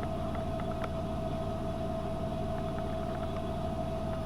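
AEG Öko-Lavamat 72520 washing machine running its drum at speed: a steady motor whine over a low rumble, with a few faint clicks.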